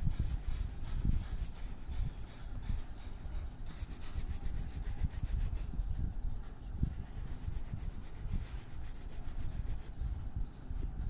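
Drawing or colouring strokes rubbing on paper, irregular and scratchy, with soft low bumps from the paper and drawing board being handled.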